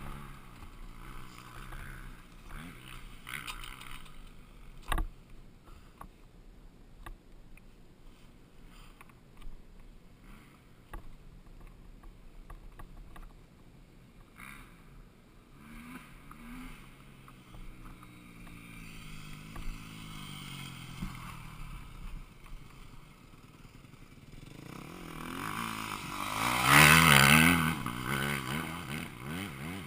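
Motocross dirt bike engines revving up and down, faint for most of the time, then much louder for a few seconds near the end as a bike opens up close by. There is a sharp click about five seconds in.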